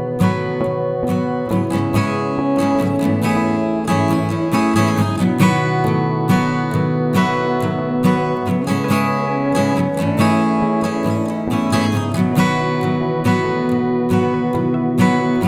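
Acoustic guitar playing, plucked and strummed chords under a picked melody, with a note sliding up in pitch about ten seconds in.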